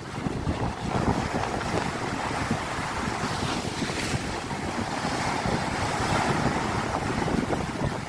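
Strong, steady wind buffeting the microphone, with sea surf breaking on the shore underneath.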